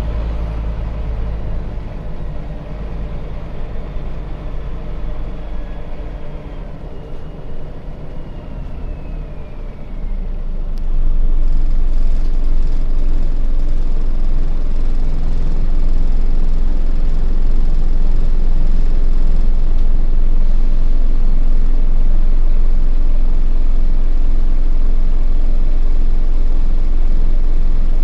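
Scania bus diesel engine heard from inside the bus while driving. About ten seconds in it turns much louder under full-throttle kick-down acceleration and stays loud.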